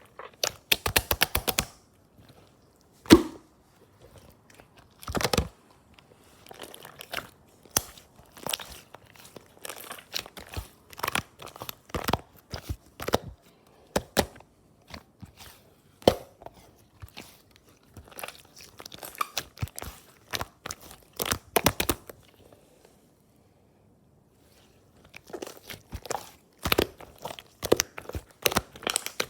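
Pink slime being squished and stretched by hand, making irregular runs of sticky clicks and crackling pops, with a short pause about three quarters of the way through.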